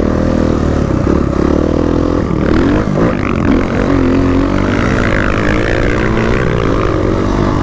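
Dirt bike engine running under load while riding, its pitch rising and falling as the throttle is worked, over a steady low rumble.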